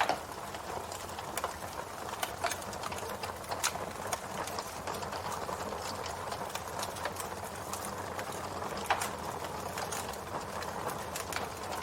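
Campfire burning with a steady low hiss and irregular sharp crackles and pops of burning wood.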